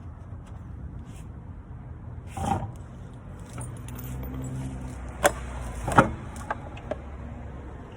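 Work sounds over a low steady hum: a short scrape about two and a half seconds in, then two sharp knocks a little under a second apart, followed by a couple of lighter clicks, like metal parts or tools being handled.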